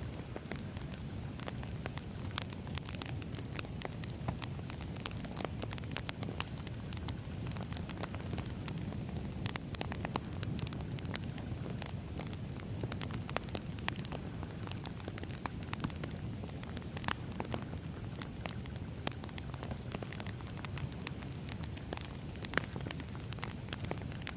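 Wood fire crackling: a steady low rumble of burning logs with frequent sharp pops and snaps, one louder pop near the end.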